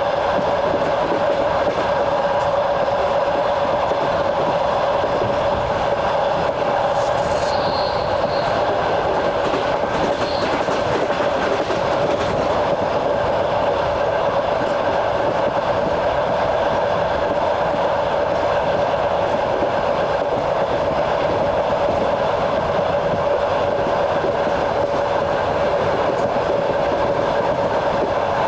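Train running along the rails, the wheels clattering, over a steady hum, with a few brief sharp clicks about seven to twelve seconds in.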